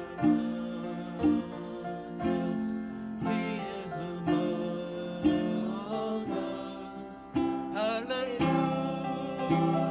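Music led by a strummed acoustic guitar, with a strong chord strum about once a second over held chords.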